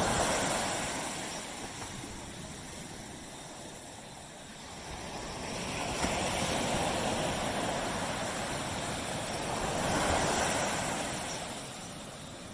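Waves breaking and washing up a beach: a steady surf hiss that swells three times, with the surges near the start, a little past the middle and about two-thirds of the way through.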